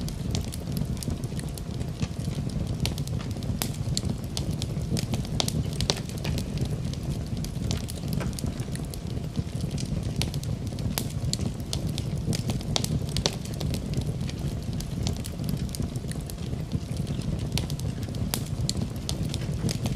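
Wood fire crackling in a fireplace: a steady low rumble with many small, sharp, irregular pops and snaps.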